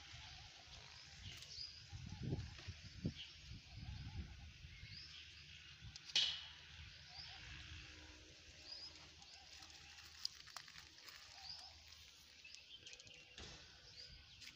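Quiet outdoor ambience: small birds chirping now and then over a faint low rumble, with one sharp click about six seconds in.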